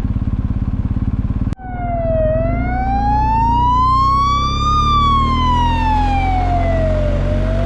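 A motorcycle engine runs for about a second and a half, then after a sudden cut an emergency-vehicle siren wails over a low engine rumble. The siren makes one slow rise and fall in pitch over about five seconds and begins to rise again near the end.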